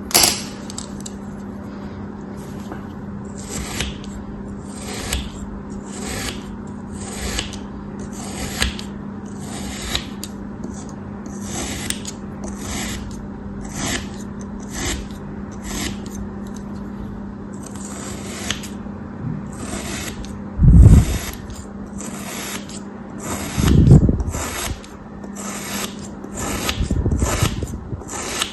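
A blade making repeated crisp scraping cuts through a soft crafted block, about one to two strokes a second, over a steady low hum. Twice, about three-quarters of the way through, there is a heavier low thud.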